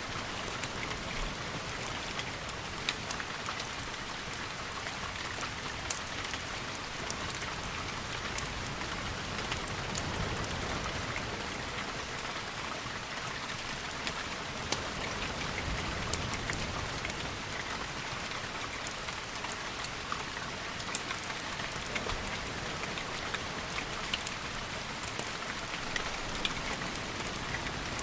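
Steady rain, with scattered sharp ticks of single drops throughout.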